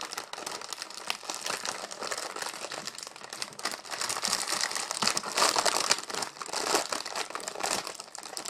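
Plastic cookie package crinkling and rustling as it is opened and handled, with a dense run of crackles that is loudest in the middle.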